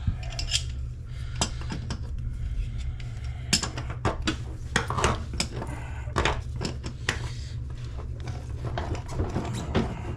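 Irregular metallic clinks, knocks and scrapes of a tool working loose the mounting nut under a bathroom faucet, over a steady low hum.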